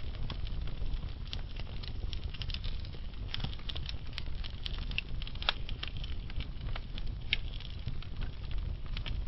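Wood fire burning slowly, with frequent small irregular crackles and pops over a low steady rumble.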